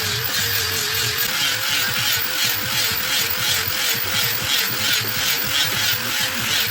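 A small motor running steadily, with a rhythmic rasping about three times a second over a slightly wavering hum.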